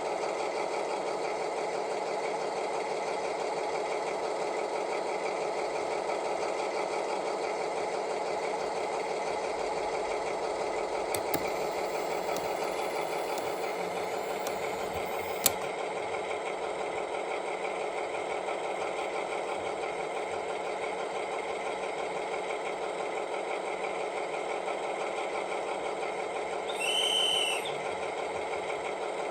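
Sound decoder of an ESU H0 model DR class 110 diesel locomotive playing the engine's steady idling through the model's small speaker. There is a single click about halfway through and a brief high tone about a second long near the end.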